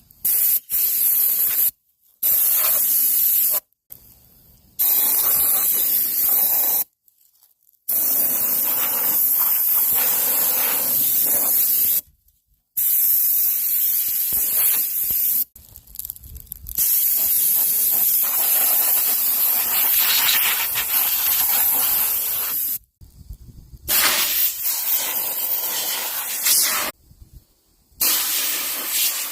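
Forceful spray hissing over a lawnmower as it is cleaned, in about eight bursts of one to six seconds. Each burst cuts off abruptly into a brief silence before starting again, as a trigger is squeezed and released.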